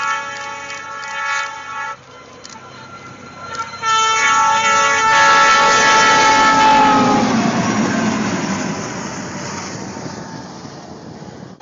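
Train horn sounding, then, after a cut, the horn blowing again close by and dropping in pitch as a locomotive-pushed snow plow train rushes past, with a loud rush of train and flying snow that slowly fades away.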